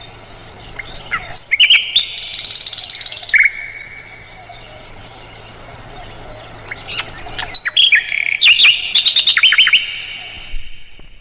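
Sikatan londo flycatcher singing in two bouts of rapid high chips, trills and sweeping whistles. The first bout comes about a second in and includes a buzzy trill. The second starts around seven seconds in and is busier and louder.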